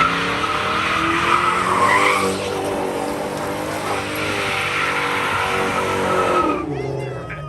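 Ford Mustang's engine held at high revs while its tyres spin and squeal on the pavement. The revs climb at the start and drop away about six and a half seconds in.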